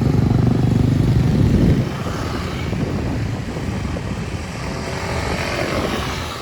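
A motor vehicle's engine running close by, loud for about the first two seconds and then dropping away, leaving the softer noise of street traffic.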